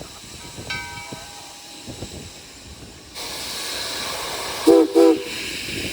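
Steam locomotive venting: a steady hiss of steam starts suddenly about three seconds in. Two short, loud blasts of its steam whistle follow near the end. Earlier there is a faint ringing tone, likely the locomotive's bell.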